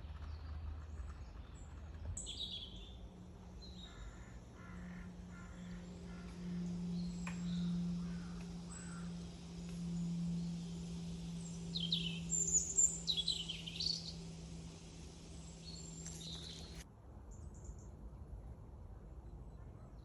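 Birds calling outdoors: scattered high chirps, with a cluster of louder sweeping calls about twelve seconds in, over a steady low hum that stops about three seconds before the end.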